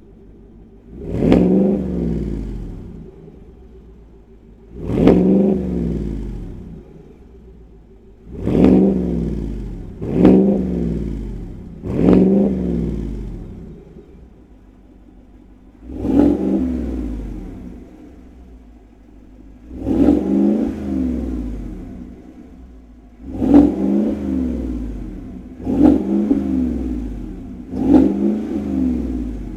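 6.2-litre V8 idling through an AWE 0FG true-dual 3-inch catback exhaust with X-pipe, blipped about ten times. Each rev jumps up quickly and falls back to idle over a second or two, a few of them in quick pairs.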